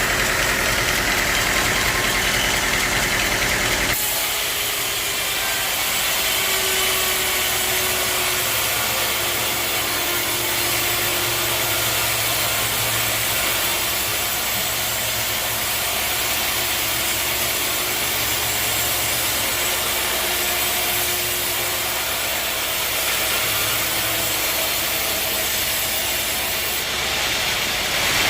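Sawmill machinery running steadily: a motor hum under an even noise, changing abruptly about four seconds in and again near the end.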